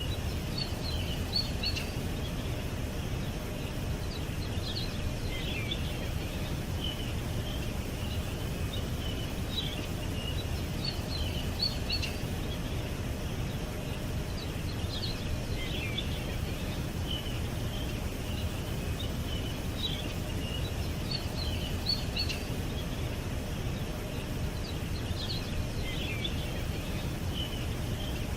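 Songbirds chirping in short high clusters every few seconds over a steady low rumble of outdoor background noise.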